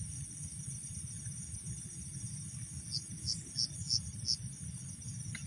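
Night insect chorus: a steady high cricket trill, with a run of five short chirps, about three a second, from about three seconds in, over a low rumble.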